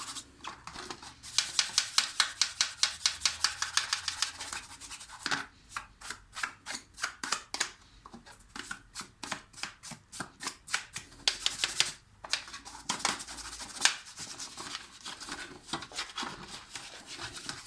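Rhythmic back-and-forth scrubbing of a dishwasher part to remove stains, in brisk spells of about five strokes a second with slower strokes between.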